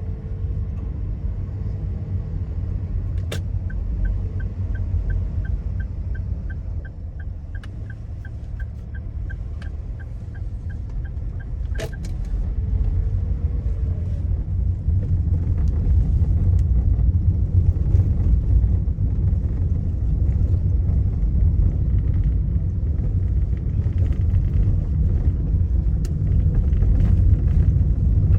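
Steady low rumble of a vehicle being driven, heard from inside, growing louder about halfway through. A faint rapid ticking of about four ticks a second runs through the first part, with a few sharp clicks.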